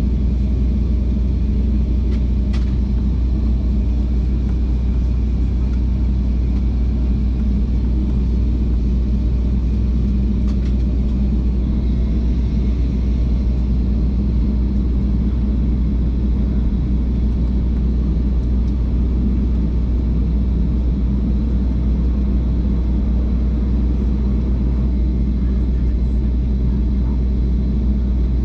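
Steady low rumble of cabin noise inside a jet airliner on the ground before takeoff: engines running and the aircraft rolling, with no change in pitch or level.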